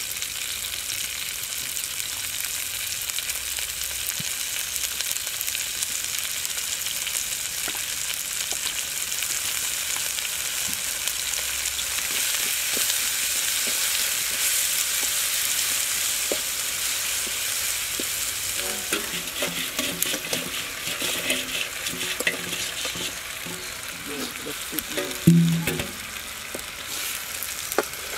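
Chopped onions, chillies and shallots, then pieces of eel, sizzling steadily in hot oil in a wok as a wooden spoon stirs them. Some faint pitched tones come in about two-thirds of the way through, and there is one loud short bump about three seconds before the end.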